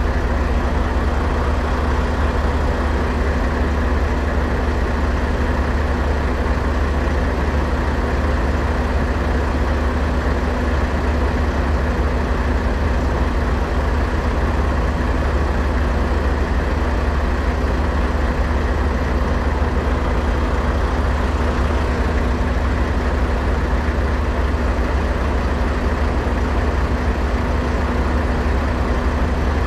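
Heavy truck diesel engine idling steadily in neutral: an unbroken deep drone with a constant hum above it.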